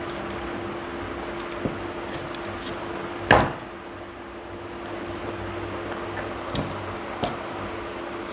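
Parts of a gas stove lighter being handled during disassembly: scattered light clicks of small hard pieces, with one sharper knock about three seconds in, over a steady low hum.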